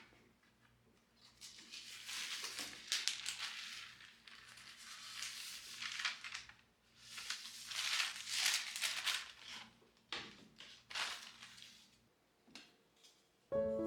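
Crinkling, rustling handling noise that comes in irregular waves with a few sharp clicks, over a faint steady low hum.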